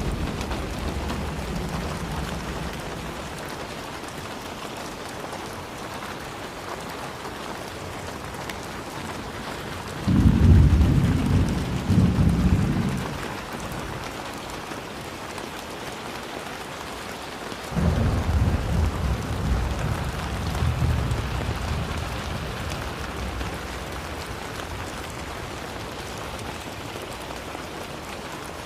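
Steady rain falling with thunder. A rumble fades out over the first few seconds. A sudden, loud clap of thunder rolls about ten seconds in for about three seconds, and another peal starts near eighteen seconds and dies away slowly.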